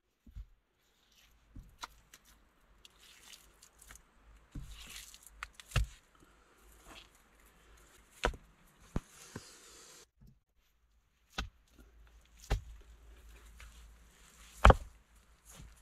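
Hands scooping and packing wet mud onto wooden poles and stones: scattered sharp wet slaps and knocks, with soft squelching and rustling between them. The loudest knock comes near the end.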